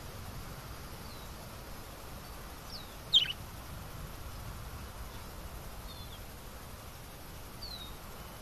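A few short, high bird chirps spread a few seconds apart over a steady low background rumble. The loudest chirp, about three seconds in, sweeps steeply down in pitch; the others are brief and faint.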